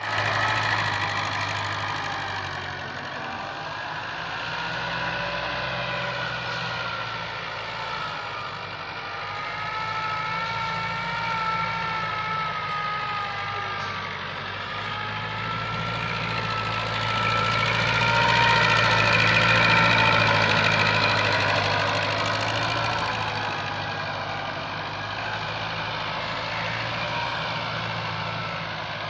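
TAFE tractor's diesel engine running continuously while pulling a cultivator through dry soil, a steady low drone with higher whining tones that slowly rise and fall. It grows louder about two-thirds of the way through, then eases back.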